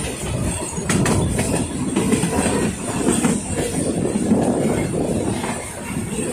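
Puffing Billy narrow-gauge steam train running along the line, its wheels clattering over the rail joints under a steady high hiss.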